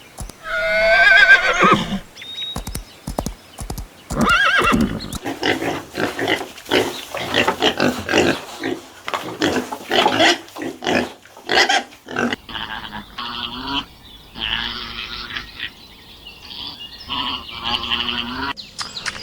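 Animal calls from several clips: a wavering, pitched whinny from a horse near the start and another call a few seconds later, then a run of short, sharp sounds and, later, other pulsing calls.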